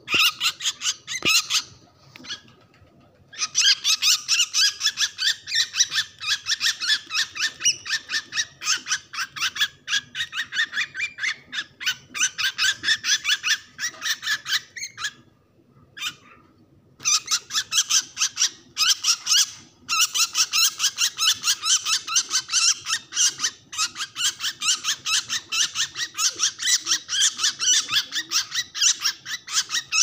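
A bird held in the hand giving harsh distress calls in rapid, unbroken runs of several calls a second, with short breaks about two, fifteen and twenty seconds in.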